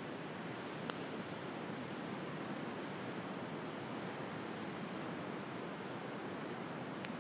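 Steady wash of sea waves with a wood campfire crackling: one sharp pop about a second in and another near the end.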